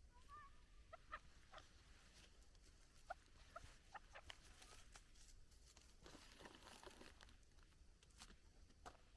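Very faint short chirps and scattered soft ticks from a chukar partridge, with a brief warbling note near the start and two short chirps about three seconds in.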